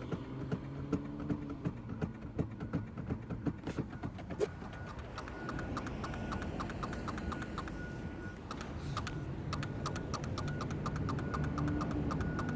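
Kia starter solenoid clicking rapidly, several clicks a second, over a low steady hum, while the starter motor does not engage. With the battery voltage holding steady, the owner takes this for a bad solenoid.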